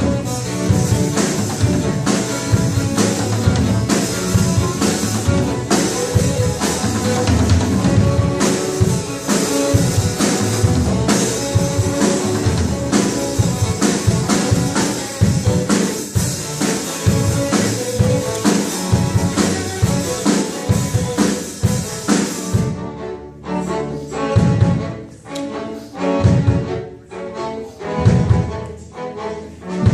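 A string ensemble plays live, with drums. About 23 seconds in, the bright high wash drops out and the strings go on more sparsely in accented phrases.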